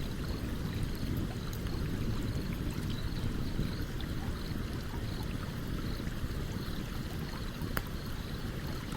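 A stream running steadily beside a campfire, the water's rush filling the low end, with scattered sharp crackles and pops from the burning wood, one louder pop near the end.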